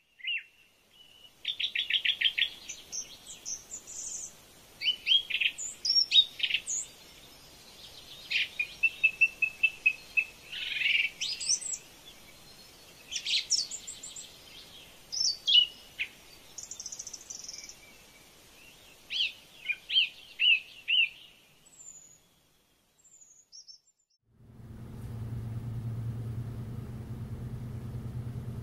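Birds chirping and singing, many short calls and quick trills overlapping, which stop about 22 seconds in. Near the end a steady low hum sets in.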